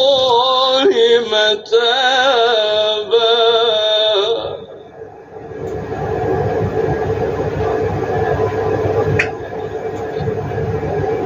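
A man chanting Quran recitation, one long melismatic held phrase, stops about four and a half seconds in. A steady rumbling noise with no clear pitch follows, with a single click near the end.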